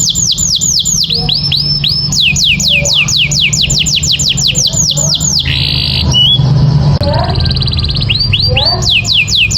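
Canary singing: long rapid runs of repeated falling whistled notes, about six a second, broken about midway by a short rasping phrase before the runs start again.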